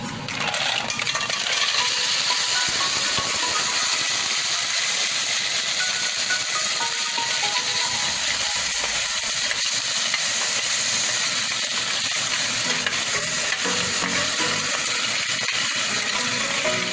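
Clams and garlic sizzling in a hot pot: a steady frying hiss that swells about a second in and holds.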